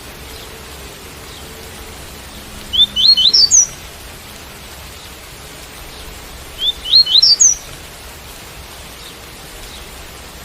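Double-collared seedeater (coleiro) singing the tui-tui song type: two short phrases of quick, rising, high notes, about four seconds apart, over steady rain.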